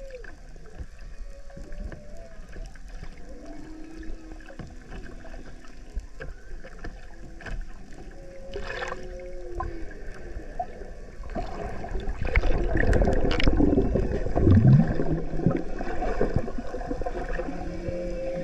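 Humpback whale song heard underwater: a series of moaning tones that bend up and down. Past the middle it grows louder and rougher, with a low falling call.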